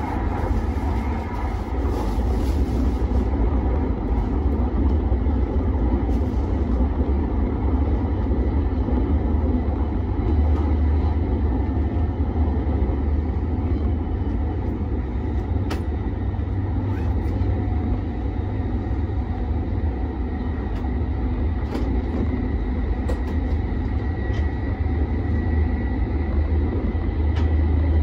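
Shinkansen train running, heard from inside the passenger car: a steady low rumble and rushing noise with a faint, steady high whine.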